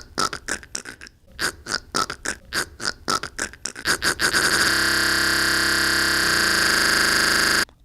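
A man making a weird vocal noise: a rhythmic string of short grunting pulses, about four a second, that speed up after about four seconds and merge into a steady buzzing tone, which cuts off suddenly near the end.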